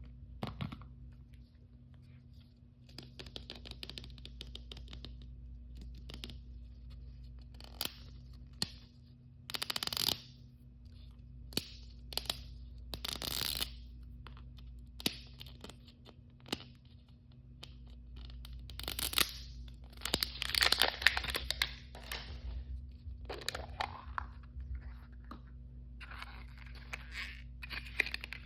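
Toy blind-bag packaging being torn open and handled: irregular rips and crinkles of plastic wrapper, with scattered sharp clicks and taps, over a steady low hum.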